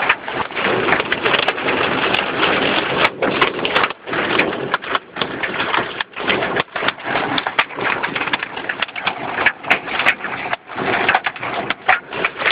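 Hail and heavy rain hammering on a car's roof and windshield, heard from inside the cabin as a dense, loud rattle of impacts that rises and dips.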